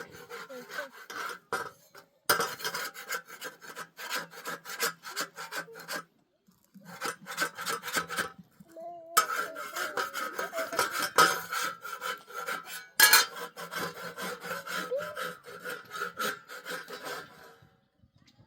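Rapid rhythmic scraping or rasping strokes, in three runs separated by short pauses.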